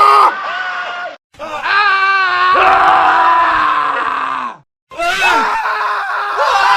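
Men screaming, several separate screams edited one after another. There are abrupt cuts to silence about a second in and again about two-thirds of the way through. One long scream in the middle slowly falls in pitch.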